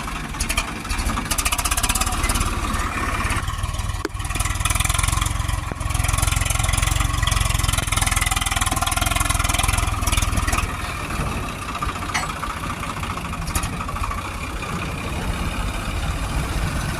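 Swaraj tractor's diesel engine running steadily, louder for a stretch between about five and ten seconds in.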